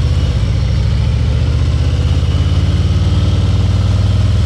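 Harley-Davidson Ultra Limited's V-twin engine running steadily at low revs, with a deep, evenly pulsing exhaust beat.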